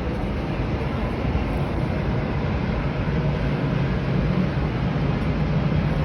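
Steady rumbling noise of a jet airliner's engines, even in level throughout.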